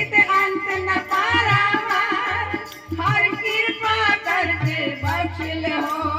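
Gurbani kirtan music: a woman singing long, ornamented held notes over a steady tabla beat.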